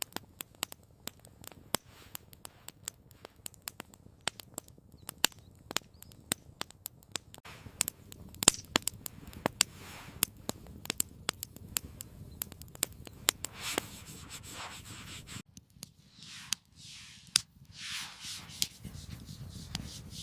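Wood fire crackling, with irregular sharp pops and snaps throughout. A few soft hissing swells come in the last few seconds.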